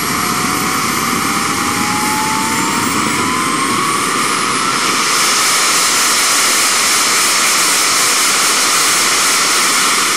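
Radio-control model jet's engine running loudly, its whine rising in pitch over the first few seconds, then a louder, hissier rush from about five seconds in.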